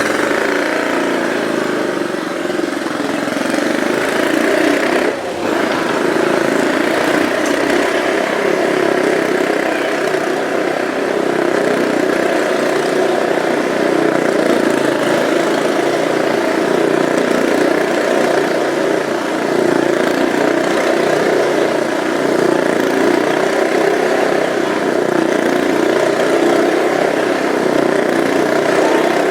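Motorcycle engine running steadily while the bike circles the wall of a Wall of Death drum, its sound rising and falling slightly lap after lap, with a brief dip about five seconds in.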